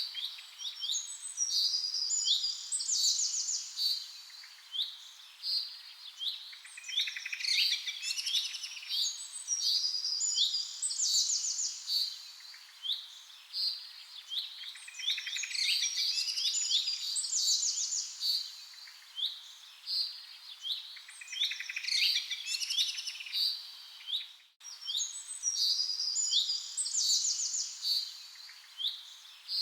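Several songbirds chirping and singing together in quick trills and short falling notes. The same stretch of calls seems to come round again and again, and the sound drops out for a moment about 24 seconds in.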